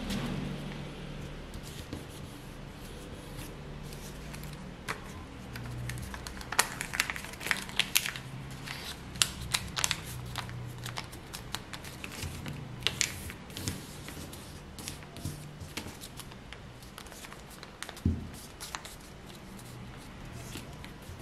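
Square sheet of paper being folded and creased by hand: crinkling and short sharp crackles as the folds are pressed, thickest through the middle stretch, with one more near the end. A steady low hum runs underneath.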